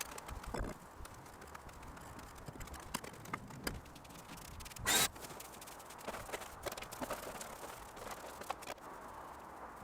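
Scattered light knocks and clicks from handwork, with one short, louder clatter about five seconds in.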